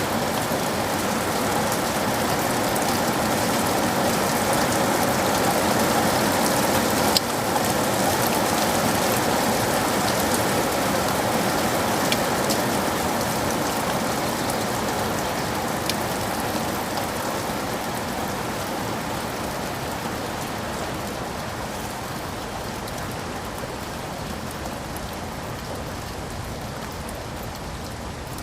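Steady rain falling, with scattered sharper drop ticks, the loudest about seven seconds in. It eases slowly over the second half.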